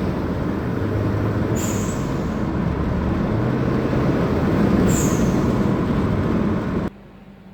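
Subaru Forester XT's turbocharged engine running hard, with an HKS SQV4 blow-off valve venting boost to atmosphere twice: a short, high, slightly falling hiss-chirp about 1.5 s in and again about 5 s in, each time the throttle is released.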